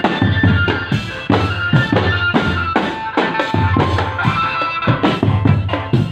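Indonesian street drum band playing: bass drum and snare beats under a held melody line.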